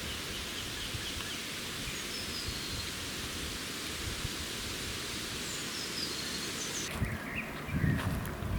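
Forest ambience: a steady hiss with a few faint bird chirps. About seven seconds in, the hiss suddenly drops away and low thuds begin.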